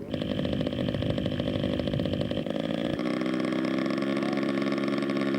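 Radio-controlled scale model airplane engine running steadily at a high, buzzing pitch; its tone shifts about three seconds in, with the low rumble dropping away and a steadier pitched drone taking over.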